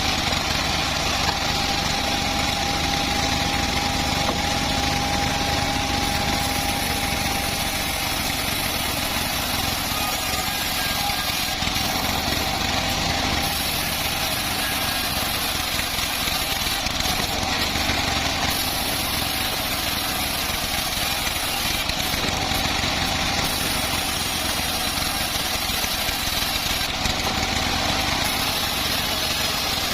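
Homemade bandsaw mill running steadily, a continuous mechanical drone.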